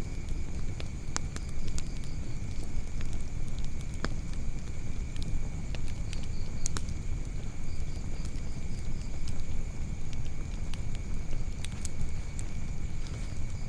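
Wood fire burning in a fireplace: a steady low rumble of flames with sharp crackles and pops at irregular intervals, a second or a few seconds apart.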